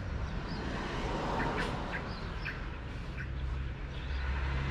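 Birds chirping and calling in short, repeated notes, over a steady low hum.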